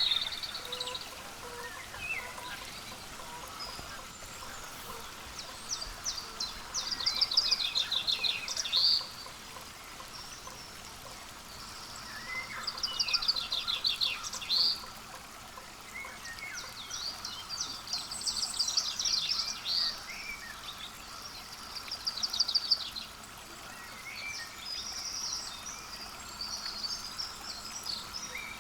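Songbirds singing: about five rapid trilled phrases, each lasting two or three seconds, with short chirps between them, over a steady faint hiss.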